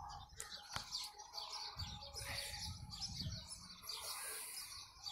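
Small birds chirping and twittering in the trees, faint and steady, with a low rumble underneath.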